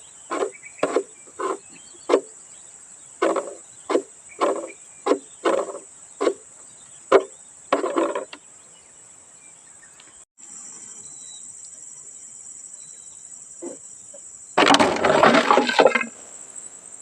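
Steady high-pitched drone of insects such as crickets, with a run of short knocks or taps about twice a second for the first half, then a scraping, rustling burst of about a second and a half near the end.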